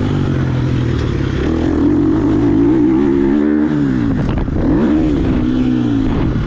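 Two-stroke dirt bike engine revving under throttle, its pitch climbing and falling several times as the throttle is opened and eased off, with a sharp drop about four seconds in before it climbs again.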